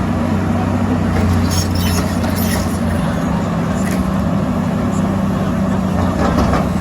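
Heavy diesel engine running steadily at a low hum, with some scattered clatter.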